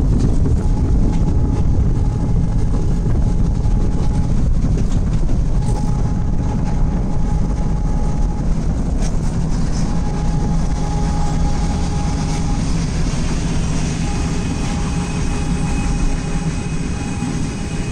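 Steady, loud rumble of a moving car and a meter-gauge passenger train running alongside it, heard from inside the car.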